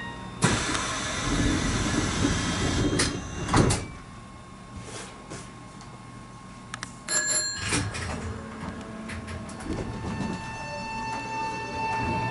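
Electric train heard from the cab: a sudden loud rushing, rumbling noise for about three and a half seconds ending in a heavy thud, then a short bright chime about seven seconds in, followed by a steady whine that begins about ten seconds in as the train starts to move off.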